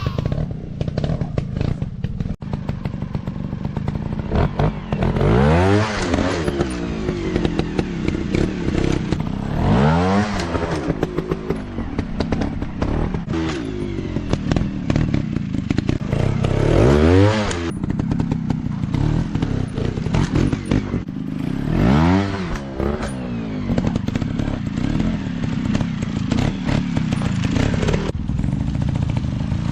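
Dirt bike engines revving up hard and dropping back again and again, about every five seconds. Clattering and thuds run through it.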